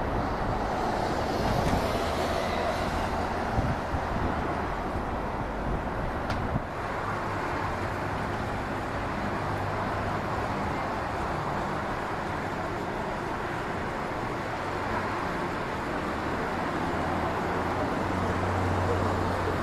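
Jet airliner engine noise: a steady rumbling roar with hiss, with an abrupt change about six and a half seconds in where one aircraft's sound gives way to another's.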